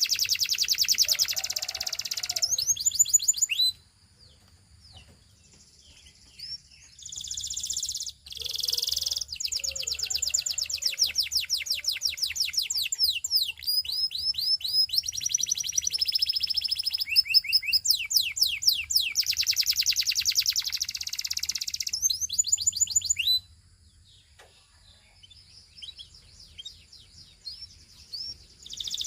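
Domestic canary, a Belgian singing canary, singing long phrases of rapid trills and rolls made of fast repeated high notes, with a few rising glides. There are two pauses of a few seconds, about four seconds in and again past the twenty-three-second mark.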